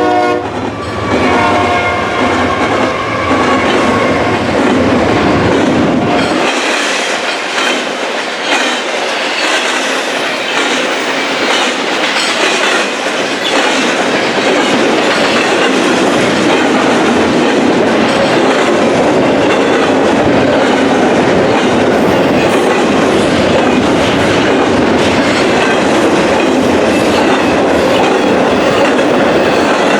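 A train passing close by at speed, with a loud, steady rush of wheels on rail and a clickety-clack over the joints. The last of its multi-tone air horn chord fades out in the first two seconds or so.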